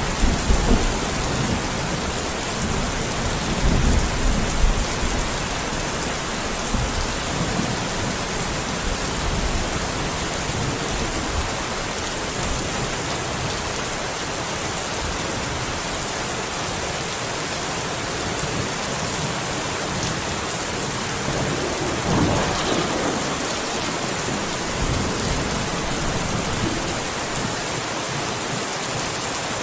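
Steady rain with rolling thunder, the rumble strongest at the start and fading over the first few seconds, and a weaker rumble about two-thirds of the way through.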